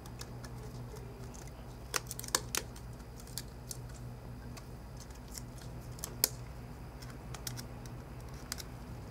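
Flathead screwdriver tip and small phone parts clicking and tapping as a replacement iPhone 4 screen is worked into its frame: a dozen or so light, scattered clicks, the loudest a cluster about two seconds in and one just after six seconds, over a low steady hum.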